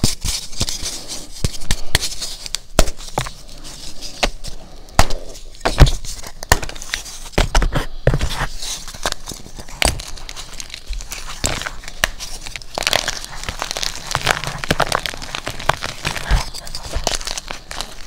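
A big dyed SPRI gym chalk block being crushed by hand, with dense, irregular crunching and crackling and sharp snaps throughout.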